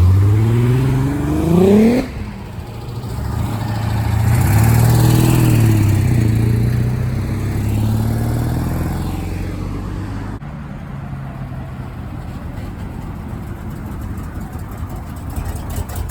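Cars driving off one after another: one engine revs up, rising sharply in pitch for about two seconds before it drops off suddenly, then a second car swells up and passes, and an engine keeps running steadily with an even pulse toward the end.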